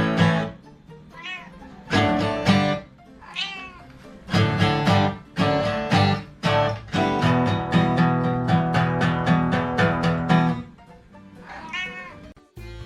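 A cat meowing a few times, each call a short rise-and-fall, over background music.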